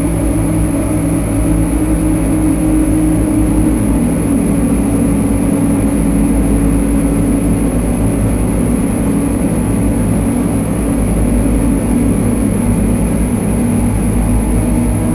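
Lyra-8 drone synthesizer playing a dense, steady low drone of layered tones, with one band slowly sinking a little in pitch and faint thin high tones over it.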